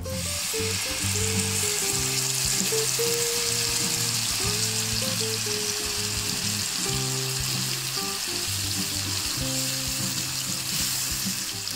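Ground chili paste hitting hot oil in a frying pan and sizzling loudly and steadily as it fries. The sizzle starts at once as the paste goes in.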